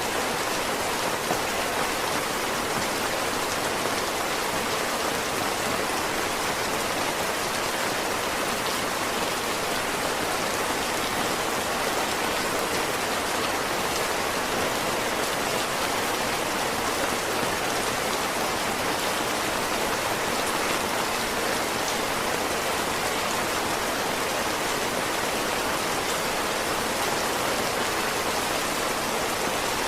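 Heavy rain falling steadily, a dense even hiss of drops on surfaces with no lulls or distinct events.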